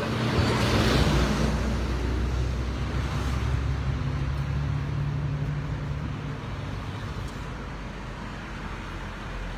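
Low steady motor rumble, the sound of road traffic, with a brief rushing noise about a second in.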